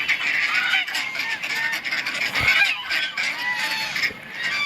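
A flock of ducks and geese calling together: many overlapping honks and quacks.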